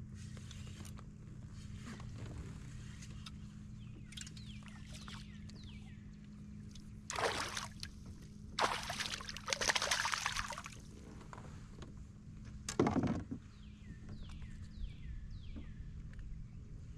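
Water splashing and sloshing at a kayak in three loud surges, over a steady low hum. Runs of short falling chirps come twice.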